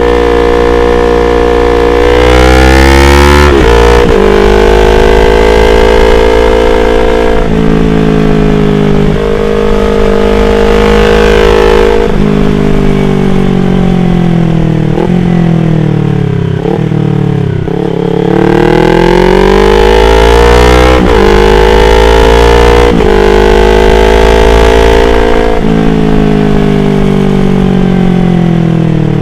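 Yamaha R25's parallel-twin engine pulling through the gears: revs climb and drop back at each upshift several times, then run down with quick throttle blips on the downshifts about halfway through, before climbing through the gears again.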